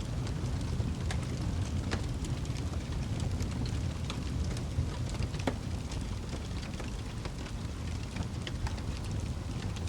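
Wood fire burning in a fireplace: a steady low rumble of the flames with irregular crackles and pops of burning wood, a couple of them sharper and louder.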